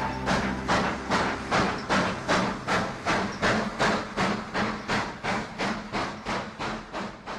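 Steam locomotive chuffing, an even run of puffs about three a second that grows fainter toward the end.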